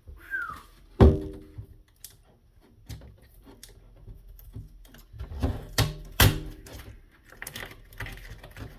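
Irregular clicks, scrapes and knocks from griptape being worked off a skateboard deck, with a few louder thumps about a second in and again around six seconds in, each with a brief ring, and a short squeak near the start.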